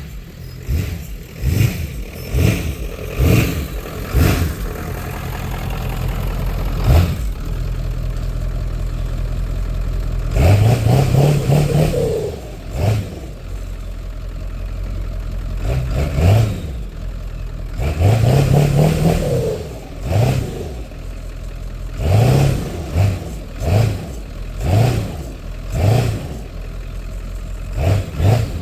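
1995 Ford F-250's 7.3 Powerstroke turbo-diesel V8 revving in repeated short bursts, with two longer climbs in revs about ten and eighteen seconds in, as the truck is driven out of deep snow.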